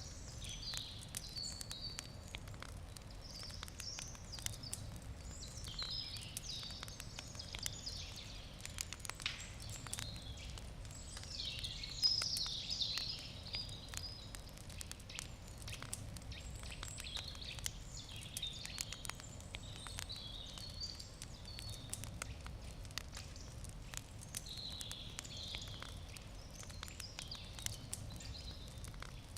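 Wood campfire crackling, with frequent sharp pops and ticks. Birds sing on and off over it, loudest about twelve seconds in.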